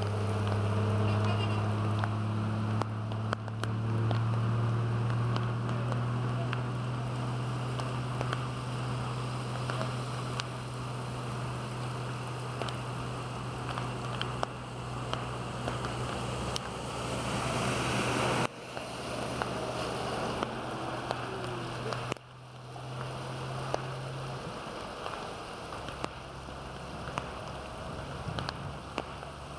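Heavy rain on a flooded street, hissing steadily with scattered drop taps, over a vehicle engine running at a steady hum that drops away near the end.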